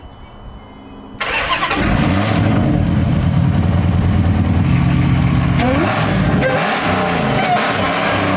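Dodge Hellcat's supercharged 6.2-litre V8 engine cutting in abruptly about a second in, then running loud with its pitch rising and falling.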